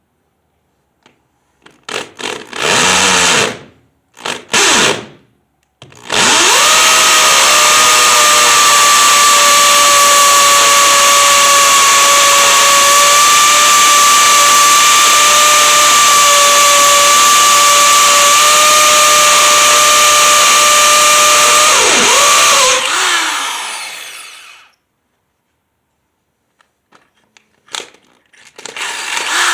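Hammer drill boring an anchor hole into a concrete slab. It gives two short starts, then runs steadily for about sixteen seconds with a constant motor whine, and the whine falls as the drill spins down. Another short start comes just before the end.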